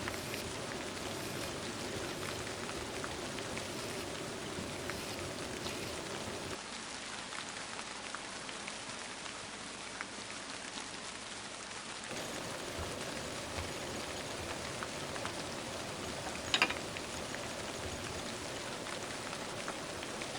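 Steady rain falling, an even patter that thins for a few seconds in the middle. A single sharp click sounds late on.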